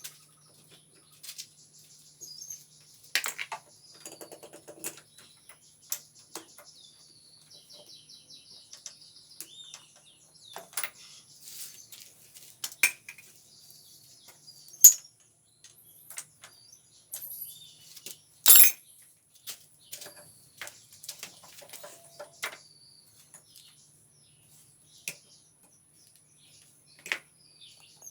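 Scattered metallic clinks and knocks of tools and metal parts being handled, each one short and irregularly spaced, the loudest about fifteen and eighteen seconds in. Faint bird chirps sound in the background, along with a faint steady high-pitched tone.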